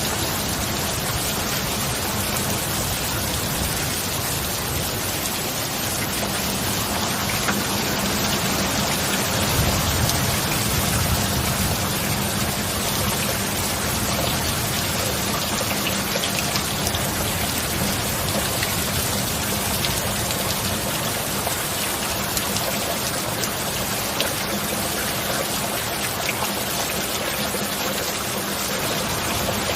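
Steady heavy rain falling, an even hiss of drops, with a low thunder rumble swelling briefly about a third of the way in.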